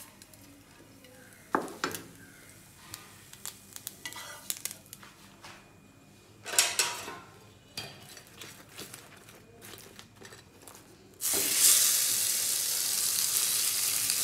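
Scattered light clicks and knocks of a plate and utensils, with one louder clatter midway, then about eleven seconds in a sudden loud, steady sizzle as an egg-coated maida pastry goes into hot oil in a frying pan.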